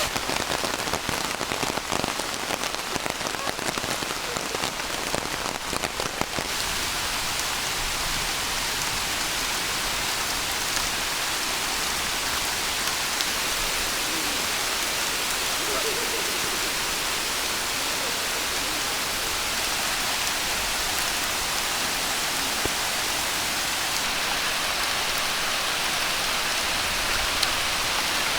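Heavy rain falling steadily. For about the first six seconds a dense patter of individual drops strikes close by, and then it settles into an even hiss.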